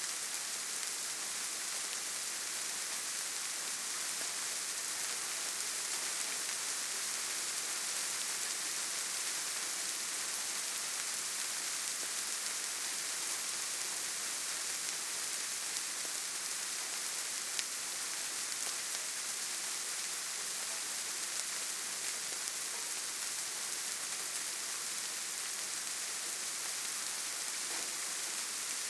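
Steady rainfall in a forest: an even hiss of rain on leaves and ground, with an occasional single louder drop.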